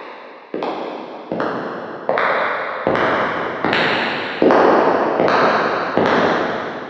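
Footsteps, one about every 0.8 seconds, each with an echoing tail, getting louder as the walker comes closer.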